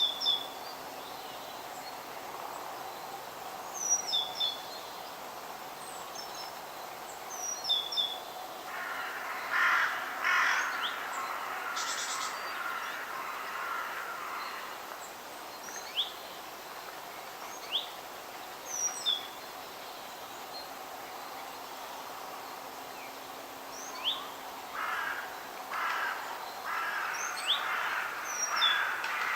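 Wild birds calling in a forest. A small bird repeats a short, high chirp every few seconds. Runs of harsher, rougher calls come about a third of the way in and again near the end, over a steady outdoor hiss.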